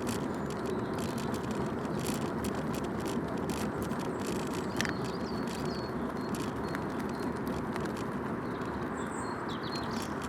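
A bicycle being ridden along an off-road track, heard from a recorder mounted on the bike: steady rolling tyre noise with frequent small clicks and rattles. A few short high chirps are heard in the middle and near the end.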